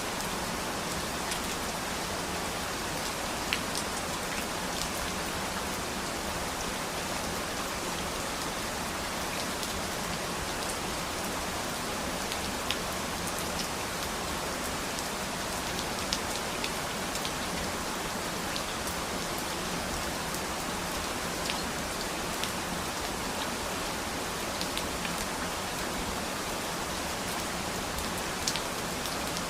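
Steady rain falling, an even hiss with scattered sharp drips of individual drops landing.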